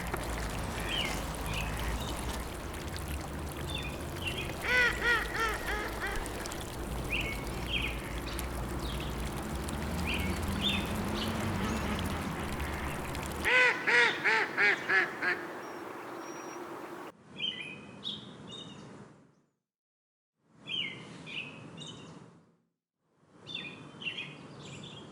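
Ducks quacking in quick runs of calls, with other birds chirping, over a steady low rumble. Past the middle it switches to small birds chirping in short separate bursts with silent gaps between.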